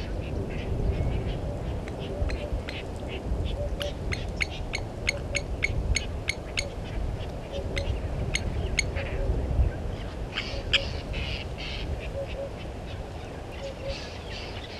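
Wild birds calling in the bush: a run of sharp, repeated chip notes about two a second through the middle, with bursts of chattering calls at the start and again later. A steady low rumble runs underneath.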